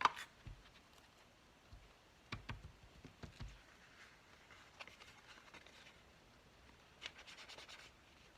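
Faint tabletop crafting sounds: an ink applicator dabbing and tapping on paper, with soft clicks of craft supplies being handled. There is a cluster of soft thumps a couple of seconds in and a quick run of small taps near the end.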